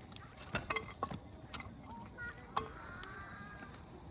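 Wood campfire crackling, with irregular sharp pops and snaps of burning firewood. Faint distant children's voices can be heard partway through.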